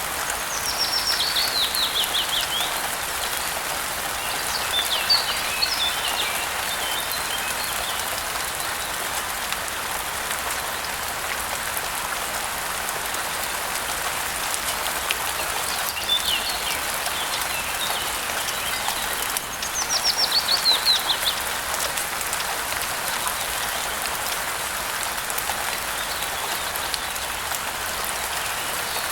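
Steady rain hiss with songbirds calling over it: quick trills of descending notes about a second in and again around twenty seconds, plus shorter chirps in between.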